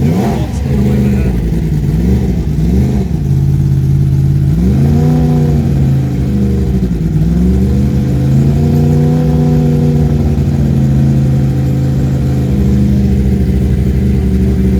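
Yamaha R1 inline-four sport-bike engine through an Akrapovic World Superbike race exhaust, revved loud: a few quick blips in the first three seconds, then held at raised revs with short drops and climbs.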